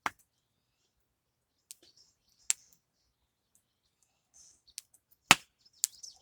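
A few scattered sharp clicks and taps, the loudest about five seconds in, from knife and hand work while cutting a V around a slaughtered chicken's vent.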